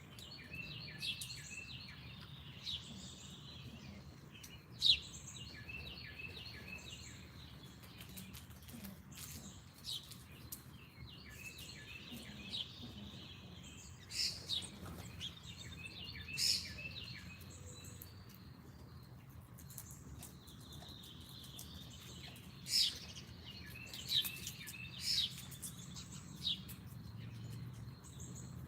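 Several songbirds chirping and calling, with sharp single chirps and quick runs of short notes scattered throughout, over a faint steady low hum.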